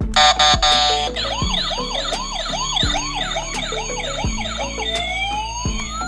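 Electronic police siren, most likely the toy RC police car's sound effect. It opens with a buzzy horn-like tone, then runs a fast yelp of quick rising-and-falling whoops, about three a second, and about five seconds in switches to a slower wail. Background music with a steady beat plays underneath.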